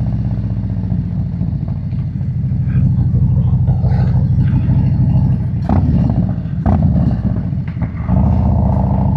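Harley-Davidson V-twin with a Screaming Eagle 131 big-bore kit and 517 cam running under way. The engine sound eases off in the middle, with three sharp knocks, then comes back louder about eight seconds in as the throttle opens.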